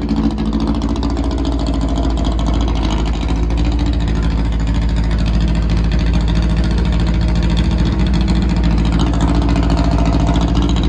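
Car engine idling steadily close by, its pitch holding level with a heavy low rumble.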